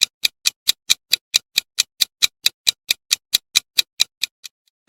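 A countdown clock ticking fast and evenly, about four to five ticks a second, stopping shortly before the end.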